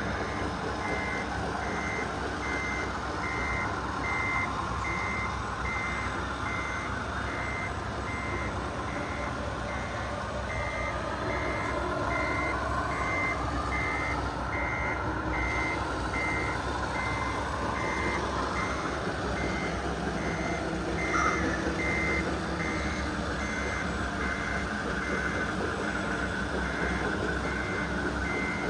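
Reversing beeper of an RC construction truck's sound module beeping steadily, about one and a half beeps a second, over the whine of its electric drive and hydraulic pump motors rising and falling in pitch as the model works.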